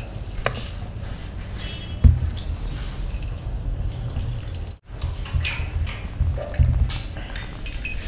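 Eating up close: biting and chewing grilled chicken and biryani rice with wet mouth sounds, and metal rings and chains clinking now and then. The sound drops out abruptly for a moment a little under five seconds in.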